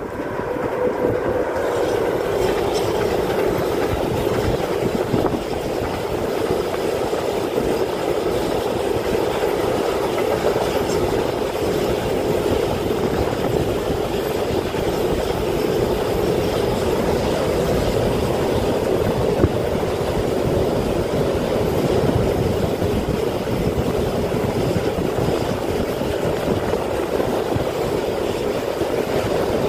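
Container freight train behind an electric locomotive passing at close range: the steady rumble of its wagons' wheels running on the rails, with one sharp knock about two-thirds of the way through.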